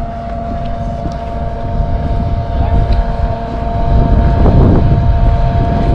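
Motorcycle running at a steady cruising speed with a steady drone, under heavy wind buffeting on the microphone. The buffeting swells about four and a half seconds in.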